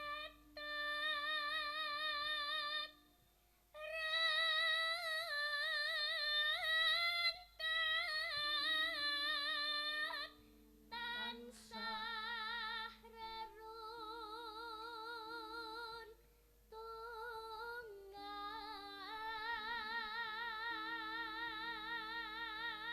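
High female voice singing long, wavering notes with strong vibrato in Javanese sinden style, in several phrases with short breaths between them, over low sustained accompaniment notes that step from one pitch to the next.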